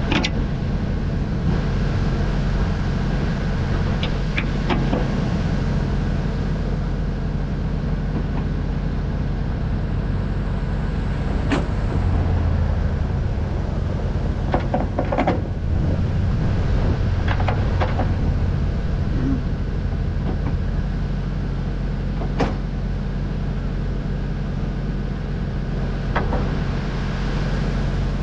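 An engine runs steadily with a low hum, with scattered short knocks and clicks over it.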